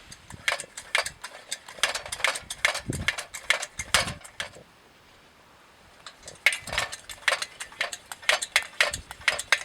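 Irregular sharp clicking and clattering of small hard objects being handled, in two runs with a short quiet pause about halfway.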